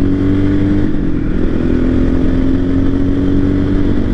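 Voge 300 Rally's single-cylinder engine running under way, its pitch climbing slowly; about a second in the pitch dips briefly, then climbs again.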